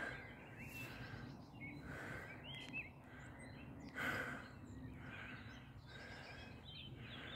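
Small birds chirping faintly, short scattered chirps over a low steady outdoor hiss, with a brief louder whoosh of noise about four seconds in.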